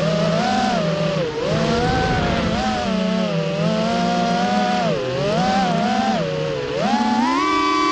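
Racing FPV quadcopter's brushless motors (Black Star 2205 2300KV on 5051 propellers) whining, the pitch rising and falling with the throttle. It climbs to a higher whine near the end.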